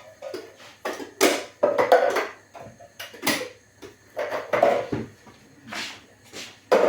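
Kitchen items being handled: a run of irregular knocks and clatters, about a dozen, some sharp and some duller.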